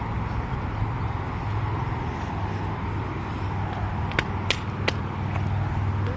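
Steady low hum and rumble of a train approaching on the line, with three sharp clicks about four to five seconds in.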